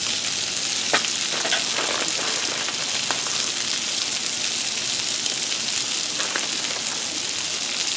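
Ground-beef patties sizzling steadily on a Blackstone flat-top griddle, with a few faint ticks.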